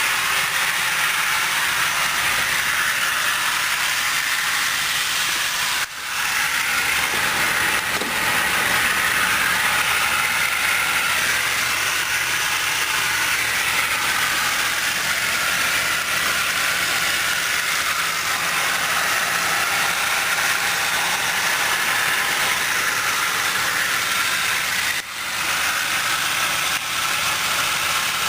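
2006 Dodge Durango engine idling, a steady hum under a constant hiss, with two brief dips in level, about six seconds in and near the end.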